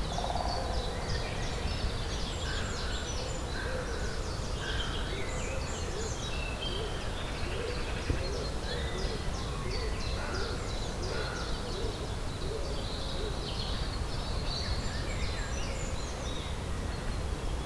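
Several songbirds singing at once, with many short, varied chirps and trills overlapping throughout, over a steady low rumble of background noise.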